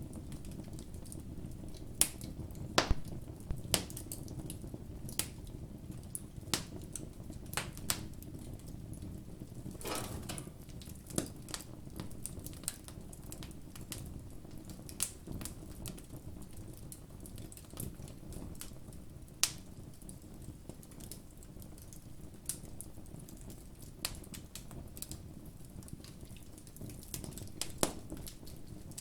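Campfire burning, with irregular sharp pops and crackles of the wood over a low steady rustle of the flames.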